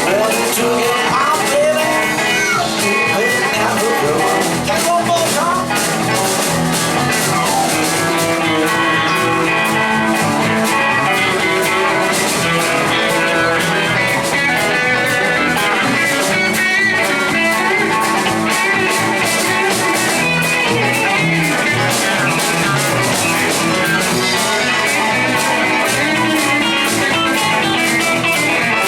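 A band playing an instrumental blues-rock passage: guitars lead over drums, bass and keys, with a steady beat.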